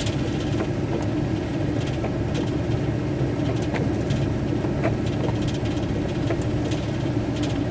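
Van engine running steadily with road noise, heard from inside the cab, with scattered irregular sharp ticks over it.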